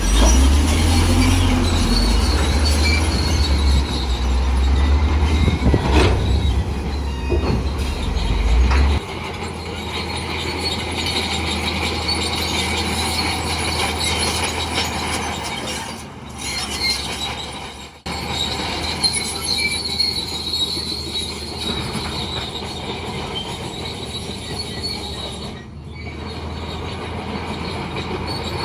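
Crawler bulldozer at work: diesel engine running with high metallic squealing from its steel tracks. The low engine drone drops off about a third of the way through, while the squealing goes on.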